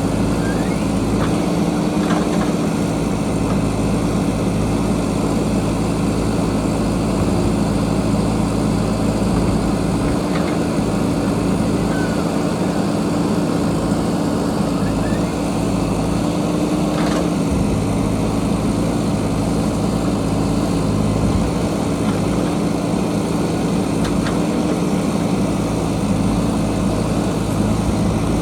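JCB backhoe loader's diesel engine running steadily under work, with a few faint knocks scattered through.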